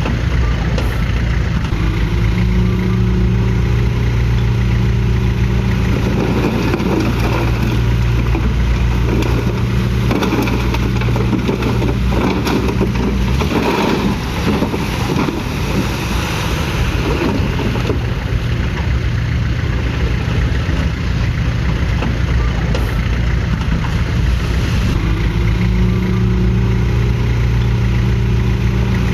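Heavy diesel engine of earthmoving machinery running steadily. Through the middle its even note turns rougher and noisier, with a clattering texture, then settles back to the steady note near the end.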